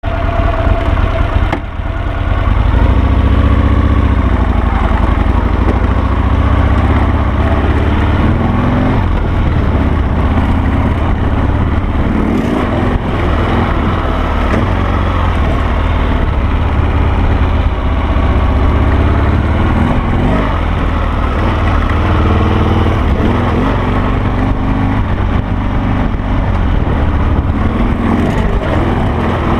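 Harley-Davidson Sportster V-twin engine of a dual-sport motorcycle running while ridden, its pitch rising and falling as the throttle opens and closes. The sound dips briefly about two seconds in.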